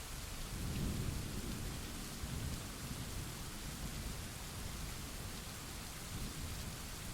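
Thunderstorm: steady rain hiss with a roll of thunder that swells about a second in and rumbles on low for several seconds.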